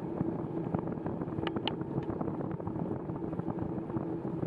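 Bicycle rolling along a rain-wet trail: steady tyre noise on the wet surface with a faint hum and scattered small ticks, plus wind on the microphone.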